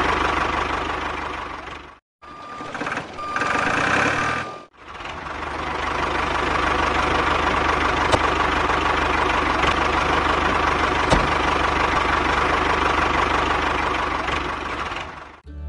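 A motor running steadily. It cuts out briefly about two seconds in, a stretch with a few short beeping tones follows, and then the steady running resumes.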